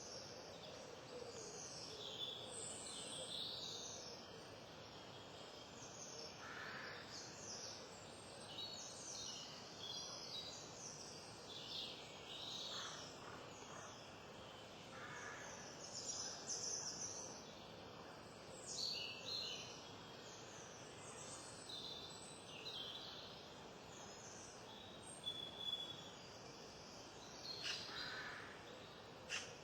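Wild birds chirping and calling: many short, high notes scattered throughout, over a faint steady background hiss.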